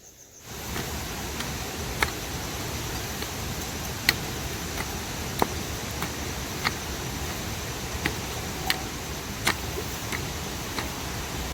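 Steady rain, with sharp drip ticks about once a second. It starts about half a second in.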